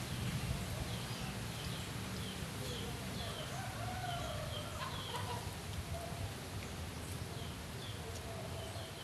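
Birds calling: a run of short, high chirps together with lower, wavering calls, over a steady low hum.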